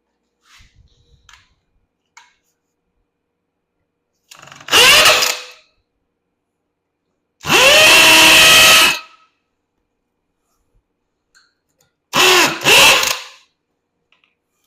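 Electric drill drilling out rivets in a golf cart's body panels. It runs in three short bursts, the longest about a second and a half in the middle and the last in two quick pulses, each whine rising as the motor spins up. A few faint clicks come just before the first burst.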